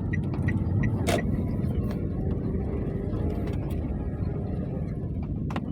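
Steady low rumble of a car, with scattered short sharp ticks and clicks over it.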